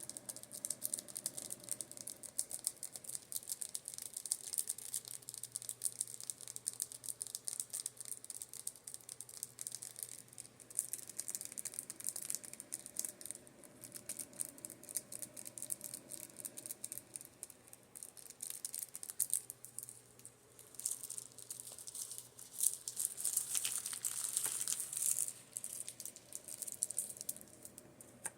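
Makeup brushes being tapped in quick, irregular runs of light clicks, busiest about three-quarters of the way through. Under them runs the faint steady hum of an oscillating fan.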